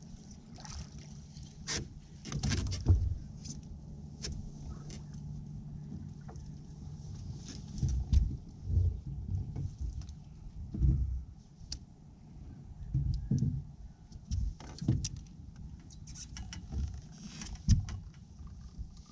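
Irregular knocks, clicks and thumps of gear being handled in a small fishing boat, with a low steady hum over the first several seconds.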